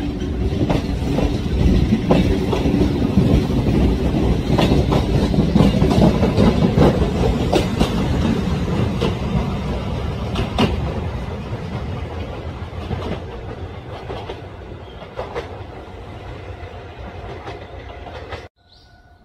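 Kintetsu electric multiple-unit train passing on jointed track, its wheels clacking over the rail joints (clickety-clack) over a steady rumble. The sound is loudest in the first half and fades as the train runs away, then cuts off abruptly near the end.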